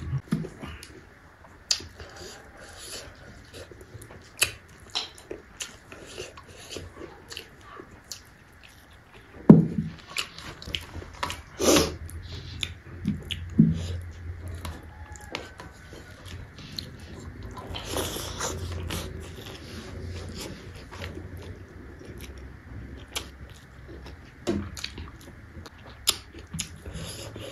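Close-up chewing and mouth sounds of a person eating rice with fermented bamboo shoot (soibum): many short wet smacks and clicks, with a few louder bites in the middle and a short noisier stretch a little later.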